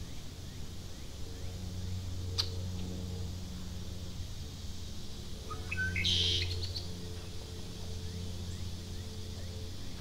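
A bird gives one short call about six seconds in, a quick rising note followed by a bright, higher burst, over a steady low hum. A single sharp click comes about two seconds in.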